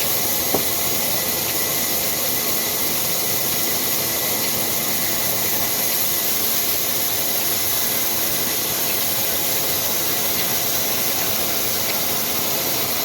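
Old Ruston diesel engine and the wood-cutting machine it drives, running steadily as a continuous hissing machinery noise with no clear beat. A single click comes about half a second in.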